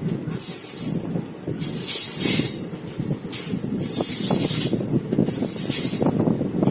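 Passenger express train running past at speed: a steady rumble of wheels on the rails, with a high metallic wheel squeal that swells and fades about every second and a half as the coaches go by.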